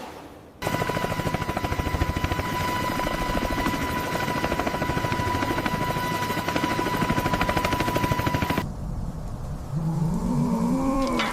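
Helicopter rotor chopping fast with a steady whine. It starts abruptly about half a second in and cuts off suddenly about three seconds before the end, leaving a lower rumble with a wavering low tone.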